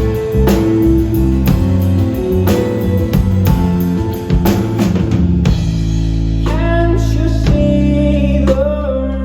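Live band music: a drum kit beating about twice a second under guitar chords, then a little past halfway the drums drop out to a held chord and a voice sings over it.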